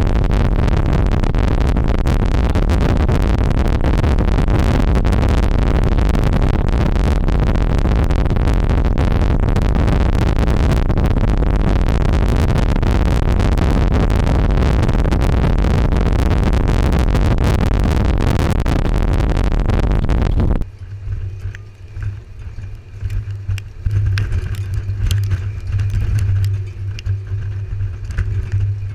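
A loud, even rushing noise, like wind or rain on the microphone, fills the sound until it cuts off abruptly about 20 seconds in. Then a vehicle's engine hums low and steady, with light clicks and rattles.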